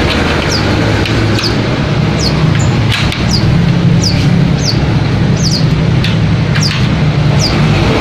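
Small caged birds giving short high chirps over and over, each one falling in pitch, about one to two a second. Under them runs a steady low hum like an engine running.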